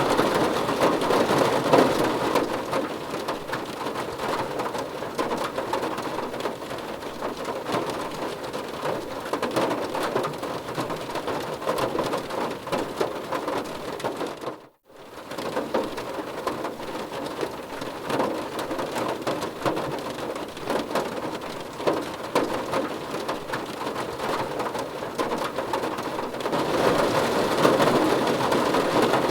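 Rain pattering on a car's roof and windows, heard from inside the car as a dense, steady patter of drops. It cuts out completely for a moment about halfway through, then resumes.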